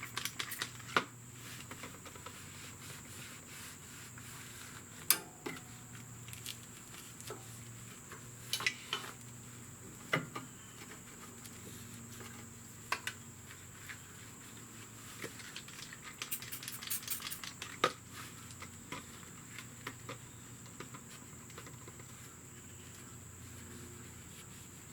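Scattered light metallic clicks and clinks of hand tools and motorcycle brake parts being handled, a few seconds apart with a small cluster about two-thirds of the way through, over a faint steady hum.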